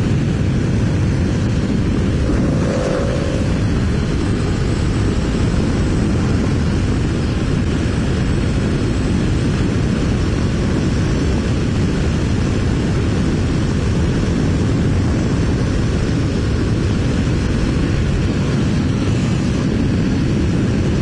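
Honda VFR750 V4 motorcycle running at riding speed, with steady wind rush and road noise heard from a helmet-mounted camera.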